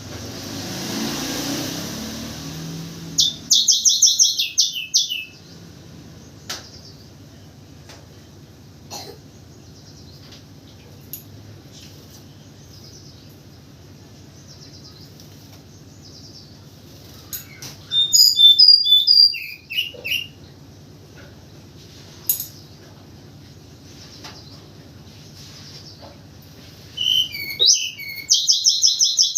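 Tledekan gunung (Sunda robin) singing in three bursts of fast, high repeated notes, a few seconds in, near the middle and near the end, with long pauses between and a brief rushing noise at the start.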